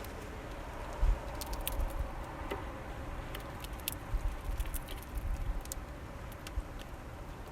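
Finches feeding at a bird feeder: scattered sharp clicks of beaks pecking and seeds being cracked, with occasional low thumps.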